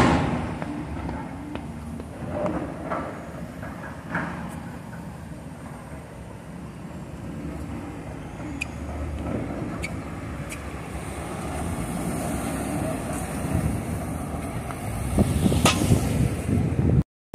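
Outdoor street noise: a steady low rumble of road traffic with a few scattered knocks. It grows louder about fifteen seconds in, then the sound cuts out completely for a moment just before the end.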